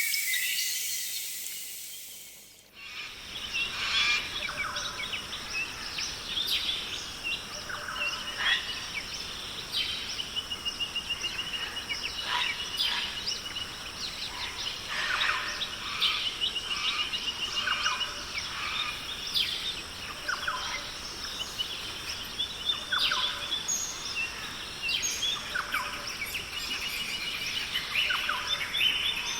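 Rainforest birds and insects: a loud high insect buzz fades out over the first two or three seconds, then many birds call and chirp, with repeated rapid trills, over a steady high insect hum.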